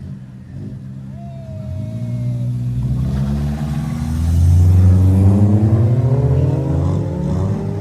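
A car engine accelerating hard, its pitch climbing steadily and getting louder, loudest about halfway through and easing a little near the end, typical of a race car launching down a drag strip.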